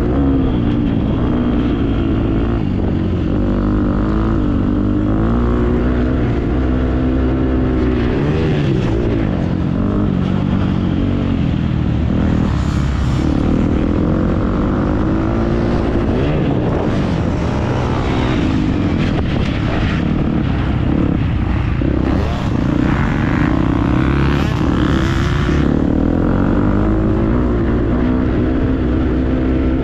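Motocross dirt bike engine revving hard and easing off over and over, its pitch climbing and dropping through the gears.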